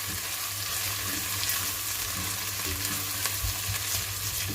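Chopped onion and garlic sizzling as they sauté in oil in a pan, stirred continuously, with a few light clicks of the utensil against the pan.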